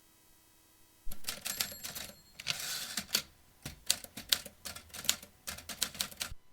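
Vintage typewriter keys striking in quick, irregular runs of clacks, starting about a second in and stopping abruptly near the end.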